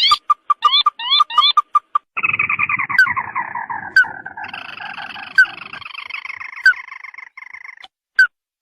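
Lure recording of ruddy-breasted crake (burung tikusan) calls. First comes a run of quick notes, about five a second. Then a churring trill falls in pitch and turns into a fast rattle that fades out near the end, with sharp clicks about once a second.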